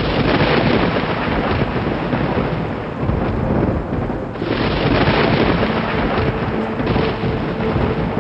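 Thunderstorm: heavy rain with thunder rumbling, swelling and easing over several seconds. A faint held music tone sits underneath in the second half.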